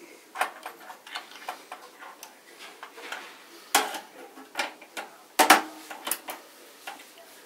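Irregular clicks and taps of hands working on a computer case's metal and plastic parts, with two louder knocks near the middle.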